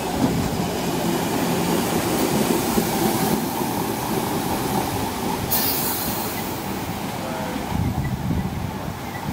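London Overground electric multiple unit running past along the platform, a steady rumble of wheels on rails with a brief hiss about five and a half seconds in.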